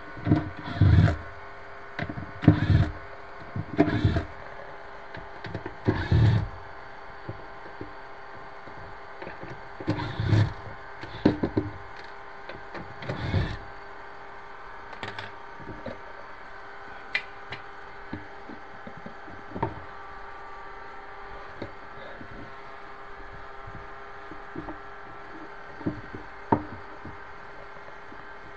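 Knocks, clunks and rattles of handling a kitchen cabinet's pull-out basket and its runners, closely spaced in the first half, then only a few isolated clicks, over a steady hum.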